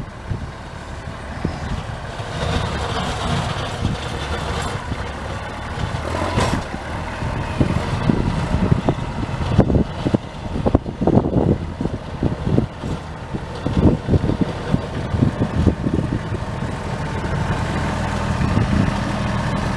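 A vehicle engine running steadily, with irregular low thuds over it.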